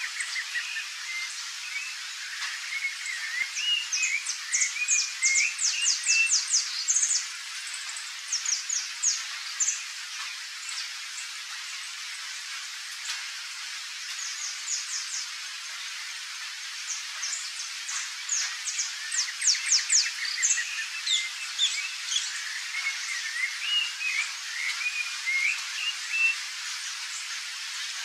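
Birdsong in two bouts, short warbled phrases mixed with fast high trills, over a steady hiss.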